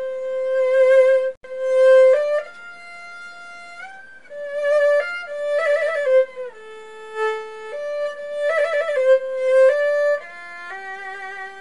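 Background music: a violin melody moving in steps between held notes, some of them wavering with vibrato.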